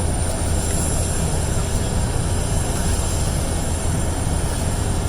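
Aircraft engine noise: a steady, continuous low rumble with a thin high whine on top.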